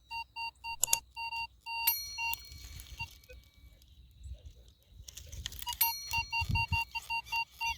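Nokta The Legend metal detector sounding a target signal: a string of short electronic beeps, about four a second. The beeps stop about two and a half seconds in and start again near the end. A fairly good signal from a buried metal object.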